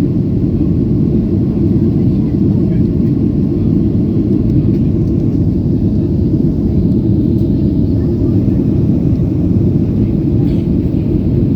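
Steady low rumble of a Boeing 737-800 in the climb, heard from inside the passenger cabin: its CFM56-7B engines at climb thrust and the airflow over the fuselage.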